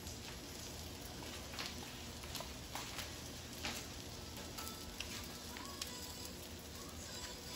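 Tortang talong (egg-coated eggplant omelette) frying in oil in a pan: a quiet, steady sizzle with scattered small pops and crackles.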